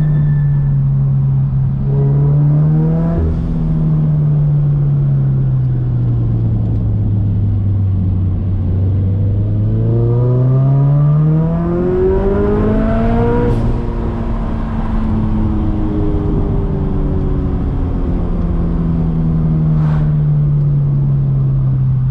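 Turbocharged Scion FR-S's flat-four engine under hard driving: the engine note sinks slowly as the car slows, climbs steeply under acceleration about halfway through, drops abruptly, then holds steady.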